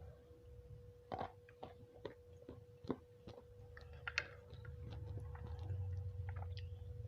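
A person chewing and biting nasi kucing close to the microphone, with scattered sharp little crunches and mouth clicks. A faint steady hum runs underneath.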